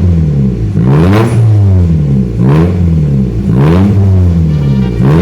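Toyota Soluna's engine revved over and over through an NDK aftermarket exhaust, the pitch rising and falling about once every second and a bit.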